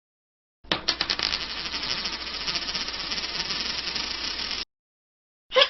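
A text-message notification tone made of rapid, dense mechanical clicking. It starts about a second in, runs for about four seconds and cuts off sharply.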